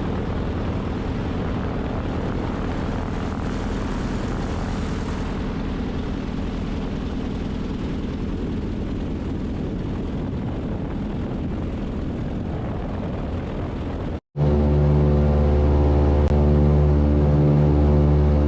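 Twin radial engines of a Beech 18 running, a steady propeller drone. About fourteen seconds in it cuts off suddenly, and a louder passage of steady, pulsing tones takes over, most likely background music.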